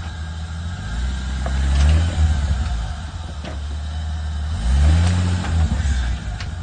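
Turbocharged 4x4's engine revving up twice, about two seconds in and again near five seconds, with steady low running between.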